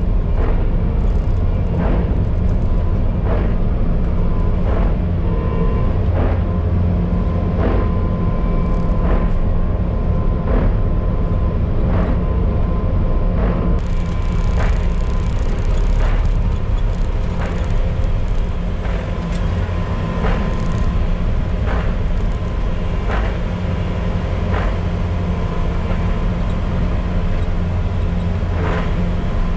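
Bobcat T595 compact track loader running steadily under load with an SB200 snowblower attachment, a constant engine drone with a higher whine, crossed by a sharp tick about once a second.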